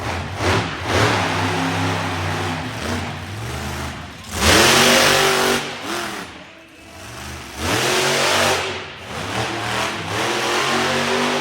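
Monster truck engine revving hard in repeated surges, its pitch climbing and falling. The two loudest surges come about four and eight seconds in.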